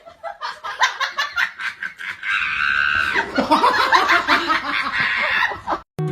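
Laughter in choppy bursts, with a higher, held stretch about two and a half seconds in.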